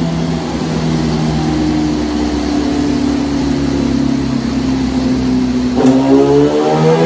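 2008 Yamaha YZF-R6's 600 cc inline-four running at high revs through an SC Project slip-on exhaust on a custom link pipe. The note sags slowly for about six seconds, then after a brief click climbs steadily as the revs rise again.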